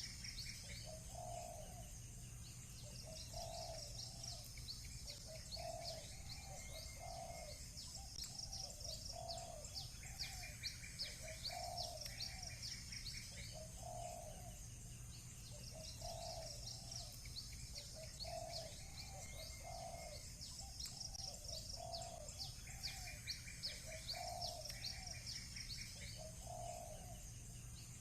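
Doves cooing over and over, about one call every second or two, with small birds chirping high and busily and a buzzy trill coming in now and then. A faint steady low hum lies underneath.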